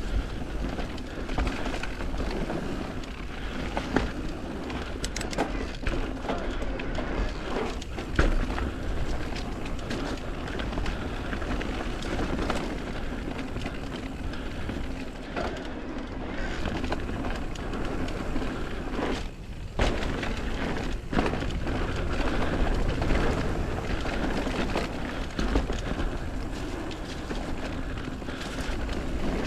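Mountain bike ridden down a rough trail: a steady rush of tyre and wind noise, with sharp knocks and rattles as it goes over bumps.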